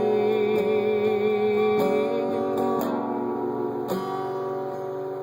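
Acoustic guitar strummed about once a second, under a man's voice holding a sung note with vibrato that ends about two seconds in.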